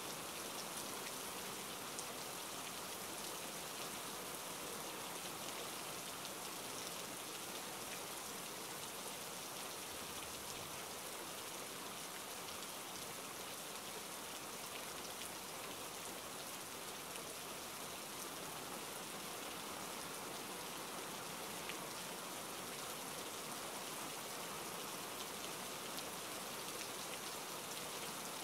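Steady rain falling into a puddle: an even hiss with faint scattered drop ticks, unchanging throughout.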